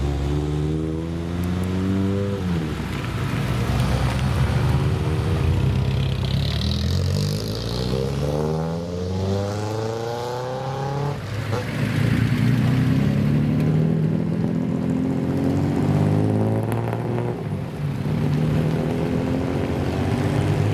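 Car engine revving, its pitch climbing and dropping back several times, with one long climb that cuts off sharply about halfway through, then running more steadily.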